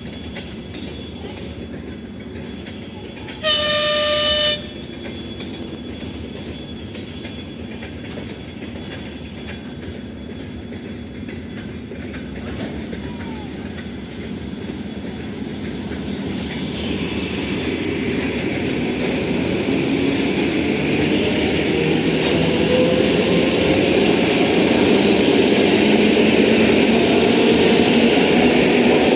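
ET2M electric multiple unit sounding its horn once, a single pitched blast of about a second, then setting off. The noise of its motors and wheels builds steadily over the following seconds, with a rising whine as it gathers speed.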